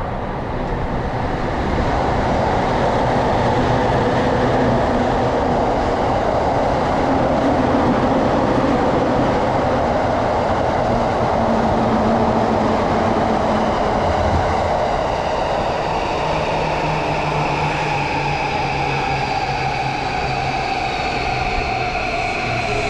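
JR Yamanote Line E235-series electric train running in alongside the platform, a steady rumble of wheels on rail. From about fifteen seconds its traction motors give several whining tones that slowly fall in pitch as it brakes to a stop.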